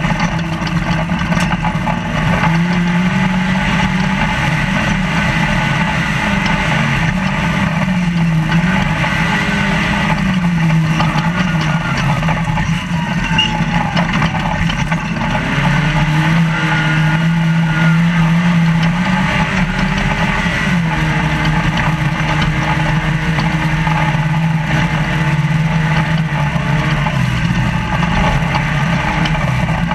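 Trophylite off-road race truck's engine heard from inside the cab at speed, its revs rising and falling, over a steady wash of road and wind noise.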